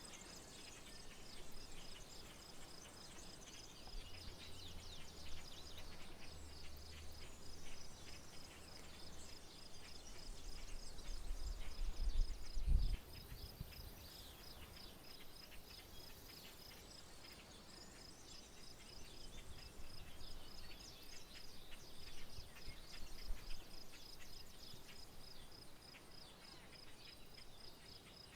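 Outdoor rural soundscape of insects and birds: a steady high pulsing trill runs throughout, with many short bird chirps scattered over it. A low rumble builds to a peak about halfway through, then drops off suddenly.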